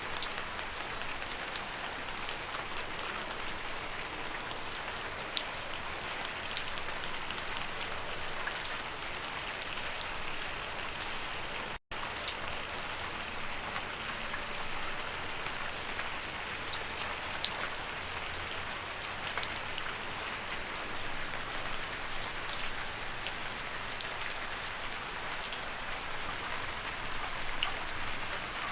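Steady falling rain, an even hiss dotted with the sharp ticks of individual drops hitting a surface. The sound cuts out for a split second about twelve seconds in.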